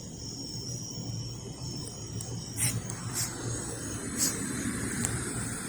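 Quiet background: a low steady hum with a thin, steady high-pitched whine, broken by a few brief clicks.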